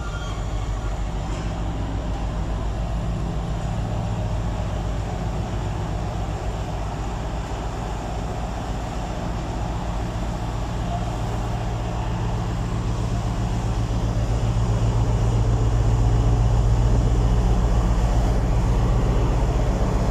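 Class 60 diesel-electric freight locomotive's engine running with a steady low throb, growing louder about two-thirds of the way through.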